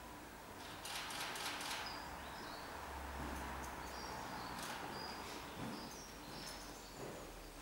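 Small bird chirping repeatedly: short, high chirps every half second or so. A brief rustle or scuff comes about a second in.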